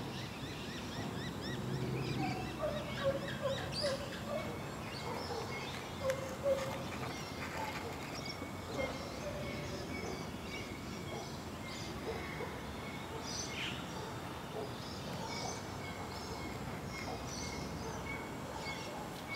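Outdoor background with distant birds calling: scattered short high chirps throughout, and a few lower warbling calls in the first several seconds.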